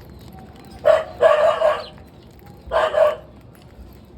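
A rooster crowing twice, a longer crow about a second in and a shorter one near the end.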